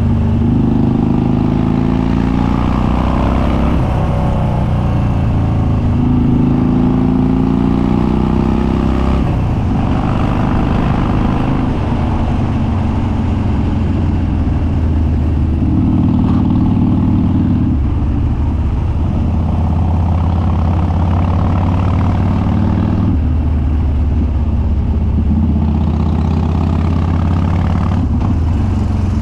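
Harley-Davidson Dyna Street Bob's Twin Cam V-twin running through an unbaffled straight dual exhaust while riding, its pitch climbing and then dropping several times as the throttle and gears change.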